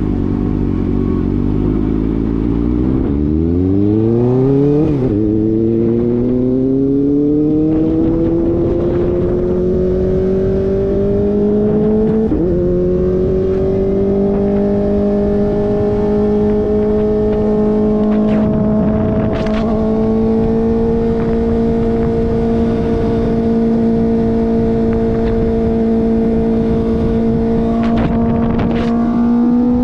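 Kawasaki ZX-4RR inline-four with an SC-Project slip-on exhaust pulling through the gears. The engine note climbs and drops at two upshifts, holds steady at cruising speed, then rises again near the end. Wind rushes over the microphone underneath.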